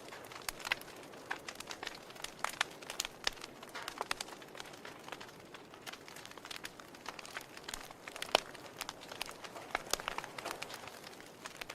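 Log fire in a fireplace crackling: irregular sharp pops and snaps over a soft steady hiss, with one louder pop about eight seconds in.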